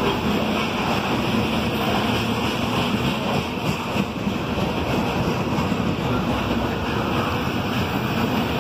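CSX freight train's covered hopper cars rolling past close by: a steady, loud rumble of steel wheels on the rails.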